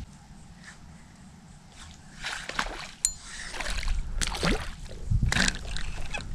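Water sloshing and splashing against a kayak in several bursts, starting about two seconds in, with one sharp click near the middle.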